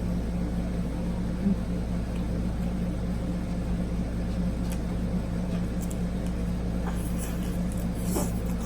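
A steady low machine-like hum, with a few faint soft clicks of chewing and mouth sounds from eating in the second half.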